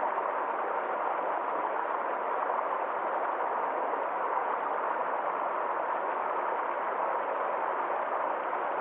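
Stream water flowing and splashing over a small waterfall, a steady even rush with no breaks.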